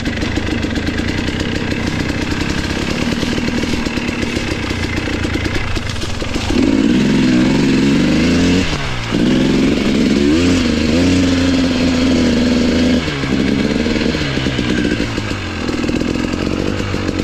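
Enduro motorcycle engine pulling under load, its pitch rising and falling as the throttle is worked. It gets louder and revs higher about six seconds in, drops off briefly and picks up again around nine seconds.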